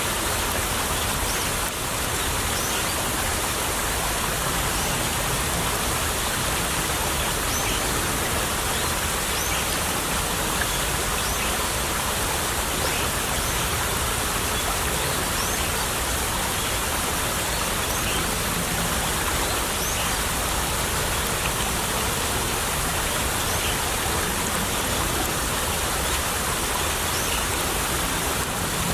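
Small stream trickling steadily over its bed, a continuous rushing with scattered faint, short high plinks.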